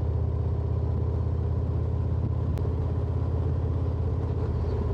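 Harley-Davidson Road Glide's V-twin engine running steadily at cruising speed, a low even drone with road and wind noise around it.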